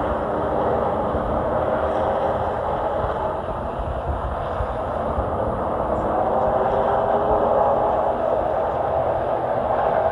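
Stock-car race truck engine running hard at racing speed, its pitch dipping and then climbing again as the throttle comes off and back on.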